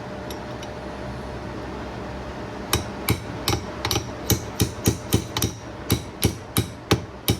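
A hammer tapping repeatedly on a 25 mm wrench held as a drift, metal on metal, about three to four strikes a second starting nearly three seconds in. The taps drive a prop shaft gear down onto its flange against a tight new prop shaft seal.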